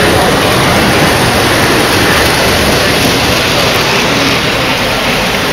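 Several O-scale model trains running on the layout's track loops: a loud, steady rolling rumble.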